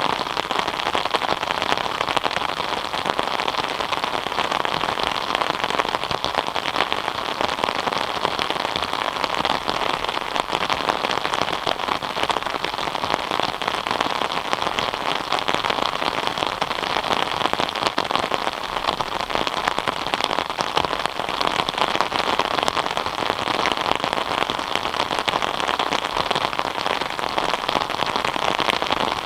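Steady rain falling, a dense even patter of drops hitting a surface.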